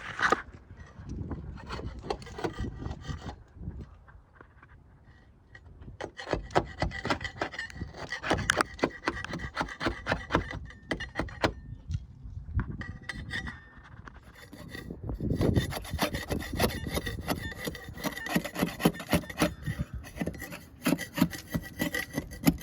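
Sandpaper rubbing on a sailboat hull's anti-fouling paint in quick back-and-forth strokes. It pauses briefly about four seconds in and again around fourteen seconds.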